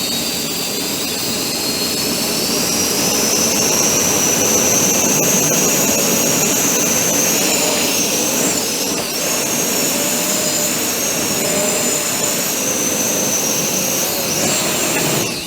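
Four 50 mm, 12-blade electric ducted fans on a quadcopter whining at high speed over a rush of air. Their pitch rises over the first few seconds and wavers as the throttle shifts. Near the end the fans spool down quickly.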